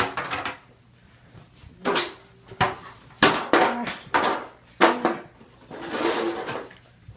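A run of sharp smacks and blows, about seven in five seconds, some followed by short grunts or cries, then a rougher scuffling noise near the end.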